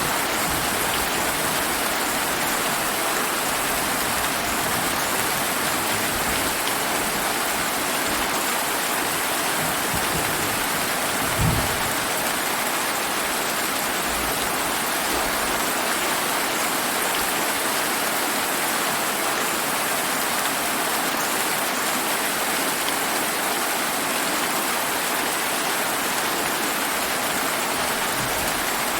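Steady summer rain falling, an even hiss throughout. There is a single brief low thump about a third of the way in.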